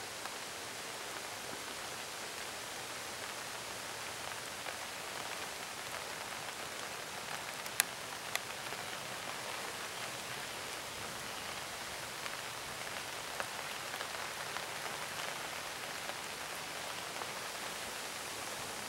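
Steady rain falling and pattering on surfaces, with a few sharp clicks scattered through it, the loudest about eight seconds in.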